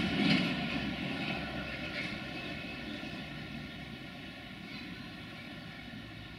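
Freight train rolling away, its rumble and wheel noise fading steadily as the last wagons recede.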